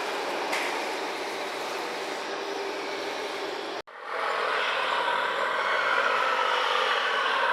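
Radio-controlled model trucks running, a steady mechanical hiss and whine from their motors and gearing. About four seconds in the sound cuts out for an instant, then comes back louder with a faint whine.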